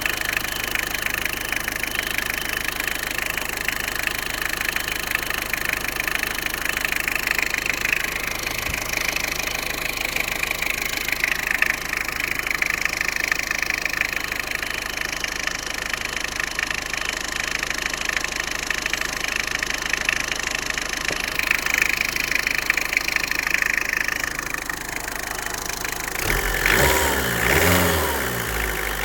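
Tata Indica V2's engine idling steadily, then revved twice near the end.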